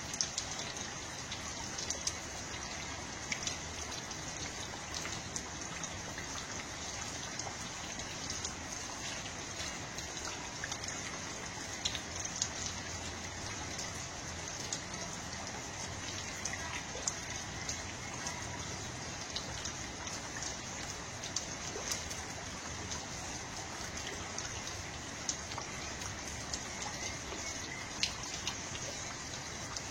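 Steady water sound with many scattered small ticks.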